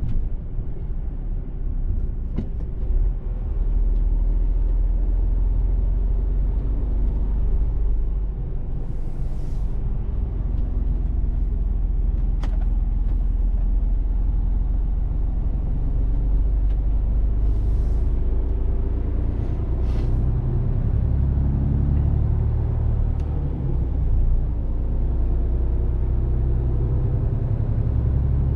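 Mercedes-Benz Actros truck's diesel engine running steadily under way, a low rumble whose pitch shifts a little past the middle, with a few short hisses of air.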